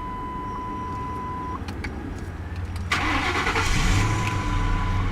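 2003 Lincoln Town Car's 4.6-litre V8 cranked by the starter about three seconds in; it fires right up, rises briefly and settles into a steady idle. A steady dashboard warning tone sounds before the cranking and again briefly near the end.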